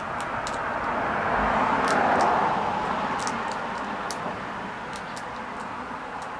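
A car passing on a nearby road: a rushing sound that swells to its loudest about two seconds in, then slowly fades. Short, high chirps of small birds come through at intervals.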